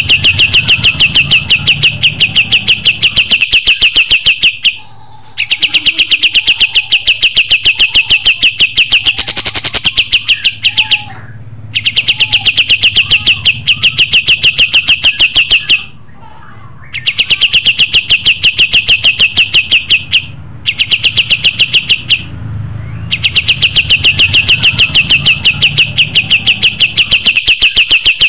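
Kapas tembak songbird singing a loud trill of very fast repeated high notes. It sings about six bouts of a few seconds each, with brief pauses between them.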